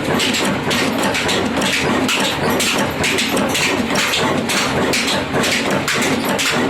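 20 HP Ruston diesel oil engine running, with a steady, even beat.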